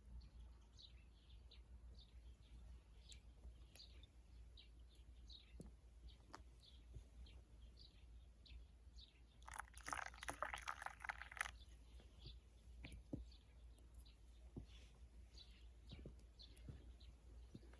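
Faint chirping of small birds, short high calls repeated every second or so, with a louder burst of crackling lasting about two seconds around ten seconds in.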